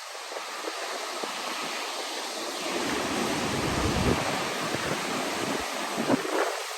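Strong wind rushing through trees, building to a heavier gust about three seconds in that buffets the microphone with a low rumble.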